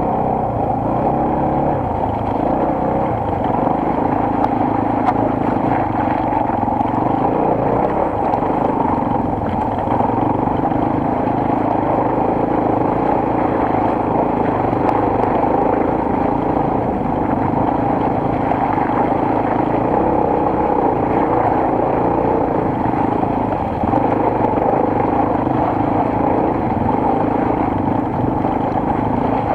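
Enduro motorcycle's single-cylinder four-stroke engine running steadily while riding.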